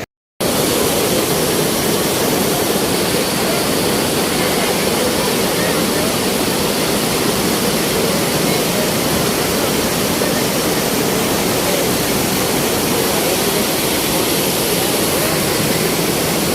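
Loud, steady rush of floodwater pouring and churning, starting after a split-second dropout.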